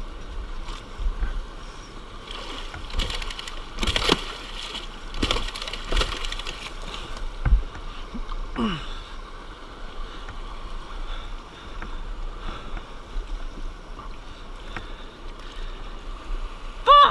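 Creek water rushing and splashing around a dirt bike, with a string of sharp knocks and clatter in the first half and a brief loud pitched sound at the very end.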